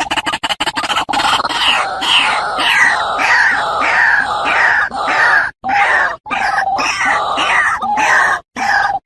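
White-breasted waterhen calling: a fast run of clicking notes, then a repeated croaking "kru-ak" call about twice a second, broken off abruptly a few times near the end.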